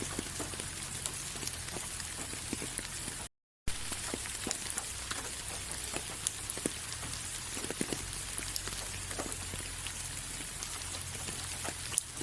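Steady rain falling: an even hiss with scattered close drops ticking. The sound cuts out completely for a split second about three seconds in.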